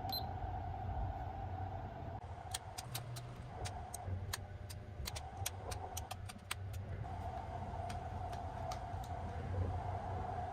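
Steady low rumble and hum of a train running, with an irregular run of sharp light clicks in the middle.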